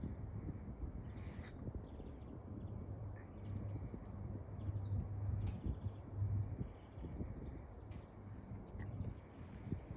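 Small birds chirping now and then, short high calls scattered through, over a steady low background rumble.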